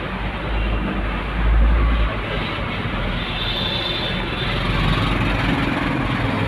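Road traffic noise: vehicle engines and tyres on a wet road, with deep rumbles from wind buffeting the microphone in the first couple of seconds.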